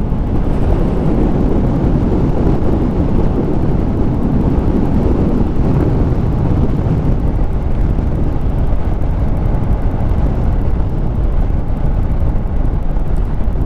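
Steady wind rush and running noise from riding a Harley-Davidson Street Rod 750 motorcycle, buffeting the rider's microphone.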